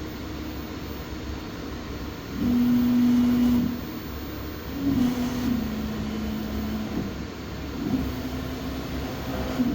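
A machine's Y axis running through three separate moves, each with a steady buzzing tone. The first move is the loudest, and the pitch drops a little partway through the second. The owner takes the buzz for an abnormal vibration of the Y axis. A steady low hum runs underneath.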